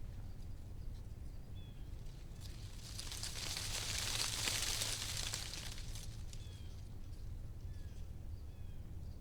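Wind blowing through tree leaves, the rustling swelling in a gust around the middle and easing off again, over a steady low rumble. Faint short bird chirps come a few times.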